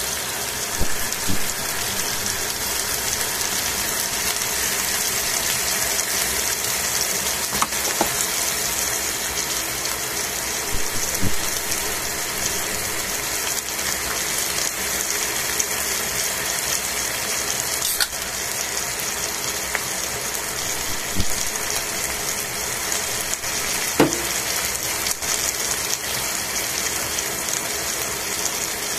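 Chicken pieces sizzling in oil in a stainless steel frying pan: a steady hiss with occasional sharp pops.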